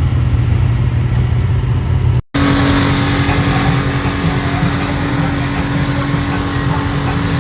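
Side-by-side UTV engine running at a steady pitch, then a sudden cut about two seconds in to another machine droning at a higher, steady pitch, with a loud hiss over it.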